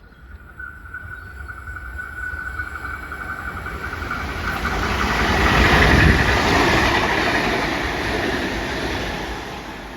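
A train approaching and passing, louder and louder until about six seconds in, then fading. A steady high whine sounds over the rail rumble as it approaches and stops at the loudest point.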